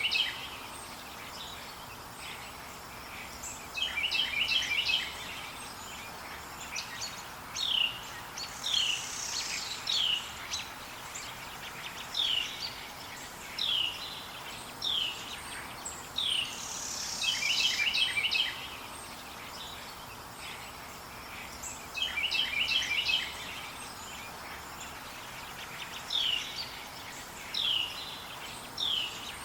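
Wild forest birds singing and calling: a short trilled phrase of quick notes repeats every few seconds, with many short falling whistled notes in between. A steady hiss of outdoor background noise runs beneath them.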